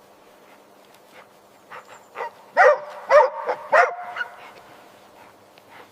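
A dog barking: a few softer barks, then three loud barks about half a second apart.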